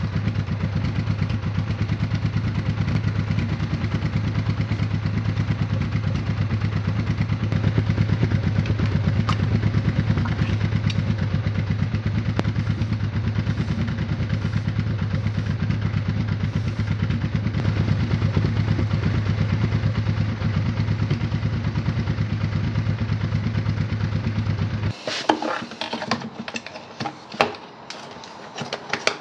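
Motorcycle engine idling steadily, with an even low pulse; it stops abruptly near the end. Then a few clattering knocks of metal parts being handled.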